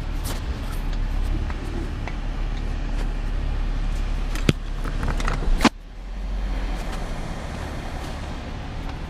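Nissan 350Z's V6 idling, heard from inside the cabin, under a steady hiss of a hand-held spray wand washing the car. Two sharp knocks come about four and a half and five and a half seconds in.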